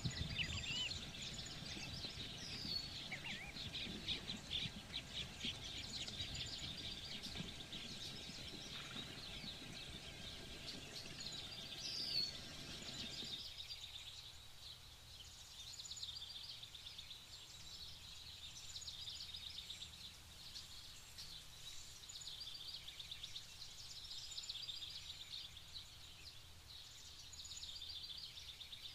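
Open-air ambience of small birds chirping and twittering. A low background rumble under the birds stops abruptly about halfway through, where the ambience changes.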